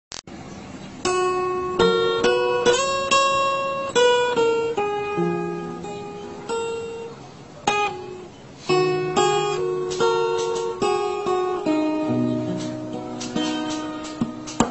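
Acoustic guitar playing an instrumental intro: chords struck one after another, each ringing out and fading before the next.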